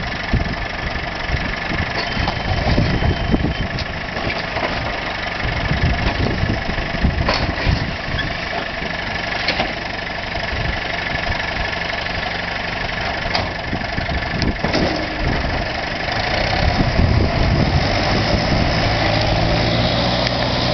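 New Holland TS100A tractor engine running steadily under the baling work, with a few sharp knocks along the way; it grows louder about three quarters of the way through.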